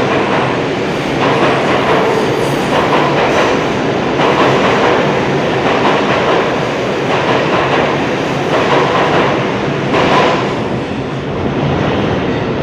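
Train running on rails: a loud, steady rumble with many small repeated knocks from the wheels.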